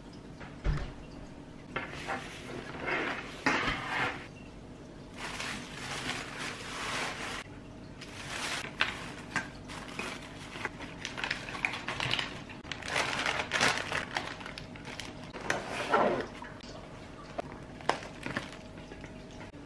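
Household items being handled, with dishes and containers clattering and knocking amid rustling, in irregular bursts.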